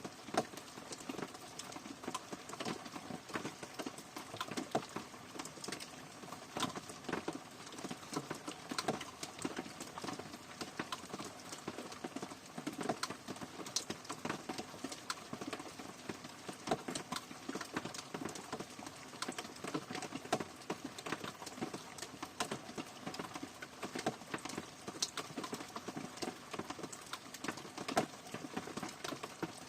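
Rain falling steadily, with many irregular drops tapping distinctly on a hard surface over a soft hiss of rainfall.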